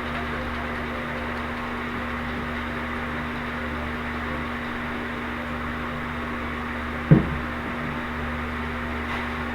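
Steady hum of a small running motor, like a fan, with one sharp knock about seven seconds in.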